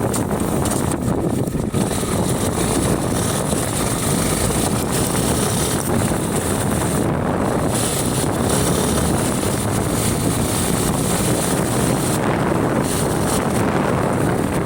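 Heavy wind buffeting the microphone of a Honda Unicorn 160 motorcycle moving at road speed: a loud, steady rush with the bike's running and road noise blended underneath.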